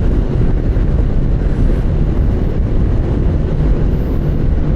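Steady rush of wind on the microphone of a moving motorcycle, with its engine and road noise underneath.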